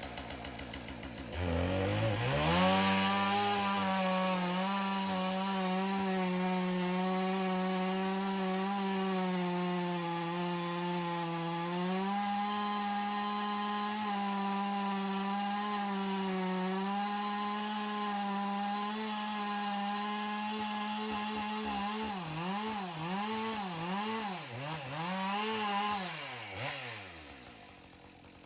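Small petrol engine revving up about a second and a half in and running steadily at high speed under load. Near the end its pitch dips and surges several times before it drops back toward idle.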